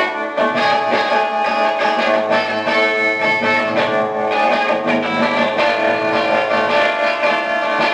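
Lo-fi rock band playing, led by strummed guitar chords that ring on steadily.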